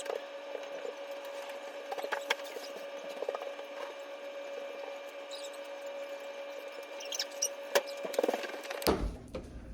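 Power drill running at a steady pitch with scattered clicks and scrapes, drilling mounting holes that did not line up. It gives way abruptly to a quieter sound near the end.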